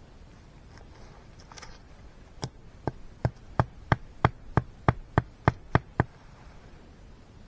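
A run of about twelve sharp knocks, roughly three a second and quickening slightly, like a tool striking repeatedly.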